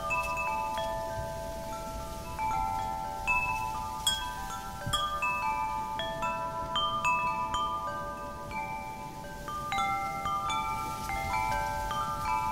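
Metal wind chimes ringing as wind stirs them, struck irregularly several times a second, with the tones overlapping and ringing on, over a faint rush of wind.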